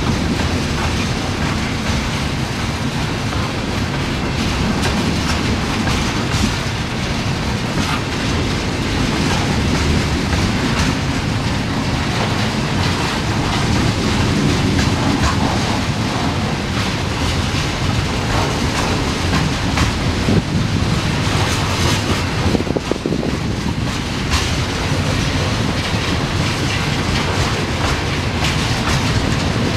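Freight train of tank cars rolling past at close range: a loud, steady rumble of steel wheels on the rails, with a few sharper clacks.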